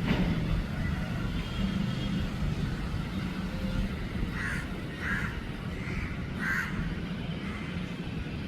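A crow cawing, four short caws in about two seconds past the middle, over a steady low background rumble.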